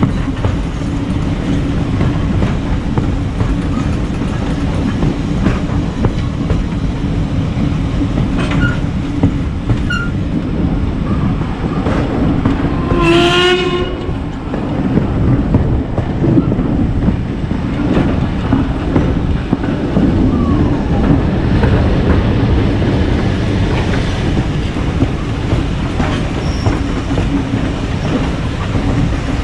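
Heritage steam train running along the line with a steady rumble, and one short whistle blast about halfway through.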